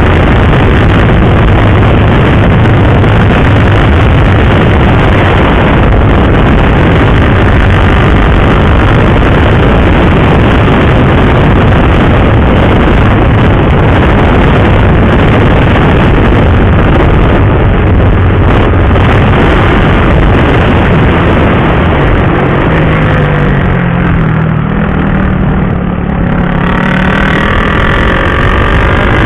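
Motorcycle engine running at road speed under heavy wind rush on the microphone. About three-quarters through the engine note drops and wavers as the bike slows, then climbs again near the end.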